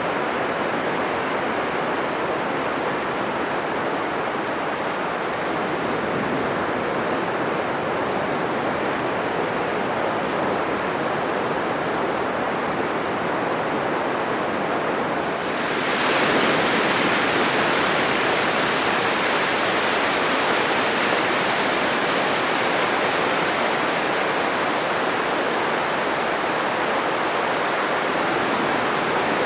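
Atlantic surf breaking on a sandy beach: a steady rushing wash of waves. About halfway through it becomes suddenly louder and hissier, and it stays that way.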